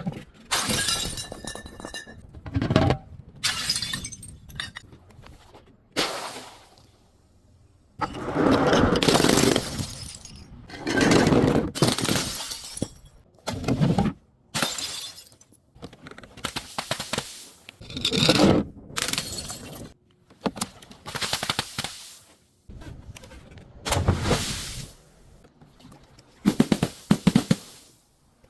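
A series of glass bottles and other objects breaking and being crushed: repeated crunching, shattering bursts of a second or two each, separated by short pauses.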